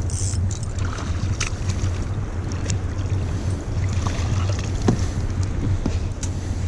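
Steady wind rumble on the microphone aboard a sea kayak, with scattered small knocks and splashes.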